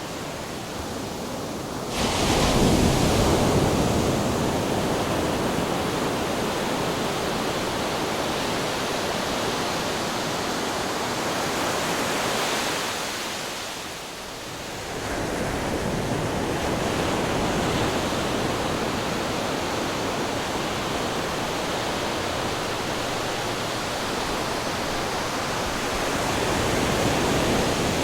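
Ocean waves crashing against rocks: continuous surf with a sudden heavy crash about two seconds in, a brief lull near the middle, then the wash building again.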